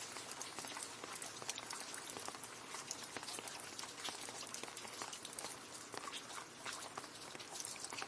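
Steady rain falling into a puddle: a dense patter of many small drops splashing, some louder near ones standing out.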